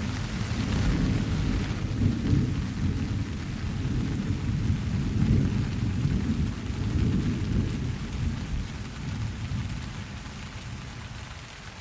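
Rolling thunder over steady rain: a low rumble that starts suddenly, swells in several waves and fades toward the end, with the hiss of rain throughout.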